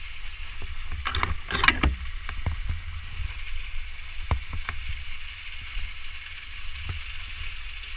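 Steady rush of a waterfall with a low rumble, overlaid by a quick cluster of sharp clicks and rattles about a second in and a few single knocks later.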